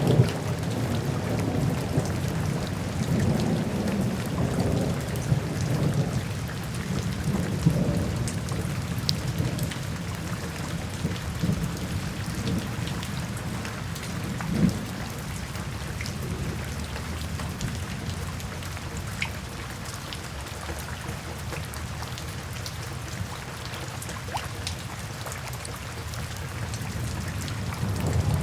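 Steady rain with scattered drop ticks over low, rolling thunder. The rumble is strongest in the first several seconds, eases off, and builds again near the end.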